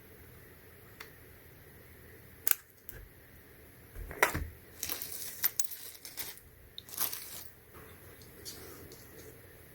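Clicks, taps and scrapes of small laptop parts and tools being handled during a MacBook Air teardown. The sharpest click comes about two and a half seconds in and another just after four seconds, followed by scraping and rustling.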